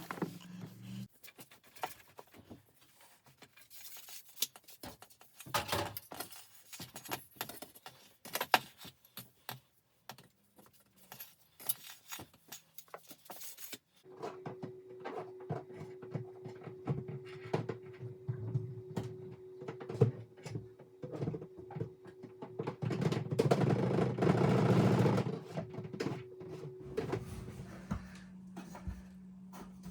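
Homemade towel-and-broom-handle swab knocking and scraping inside a dryer vent pipe as the lint is cleaned out. About halfway through a steady hum sets in, with a louder rushing noise for a few seconds near the end.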